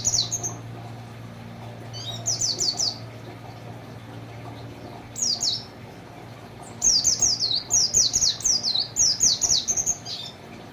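White-eye (pleci) singing in bursts of rapid, quickly falling high notes in canary-like phrases, the longest burst running about three seconds near the end. A low steady hum sits underneath.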